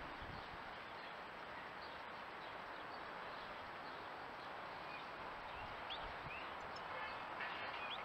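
Faint, short bird chirps, a few in the second half, over a steady hiss.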